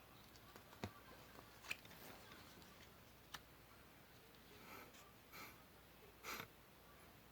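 Faint paper-craft handling: a few sharp small clicks, then three soft brief rustles of paper being handled.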